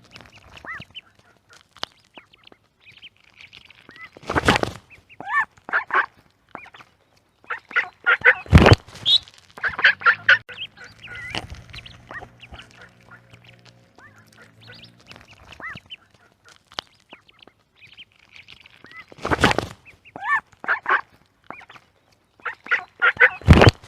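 A small duck calling: clusters of short quacks and calls, broken by four louder, harsher bursts.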